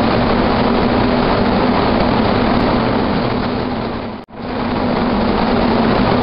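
Spray painting in an auto body paint booth: a steady, loud rush of air from the spray gun and booth ventilation, with a low hum. It dips out briefly about four seconds in.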